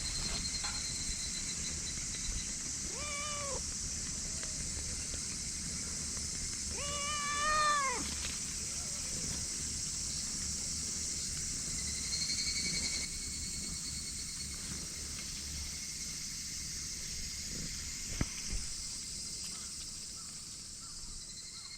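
A cat meows twice: a short meow about three seconds in, then a longer, drawn-out one a few seconds later, over a steady high-pitched hiss.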